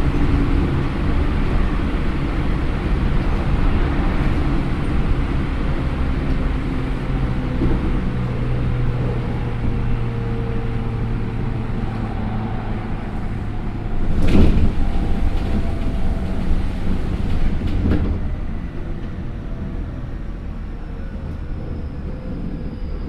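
Onboard running sound of a Yokohama Minatomirai Y500 series electric train with Hitachi IGBT inverter drive, moving at speed: a steady rumble of wheels on rail with faint motor tones. Two sharp clatters come about 14 and 18 seconds in, and near the end a faint high tone slowly falls in pitch as the noise eases.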